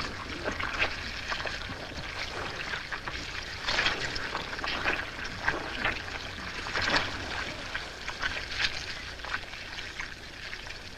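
Hippos shifting and jostling in a shallow, drying mud pool: irregular splashing and sloshing of water and mud, with louder splashes about four and seven seconds in.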